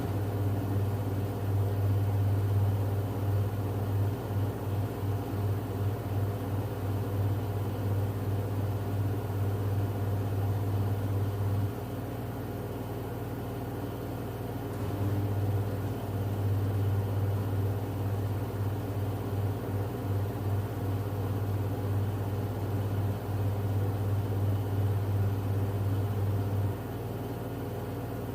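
LG F10B8MD front-loading washing machine in its final spin at 1150 rpm, running steadily without knocking or bearing drone, a sign the machine is in good order. A loud low hum cuts out about twelve seconds in, returns about three seconds later, and stops again shortly before the end.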